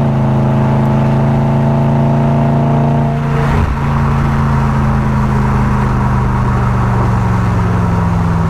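Car engine running at steady revs. About three seconds in, the throttle is lifted: the note changes and then runs on with a slowly falling pitch as the car slows.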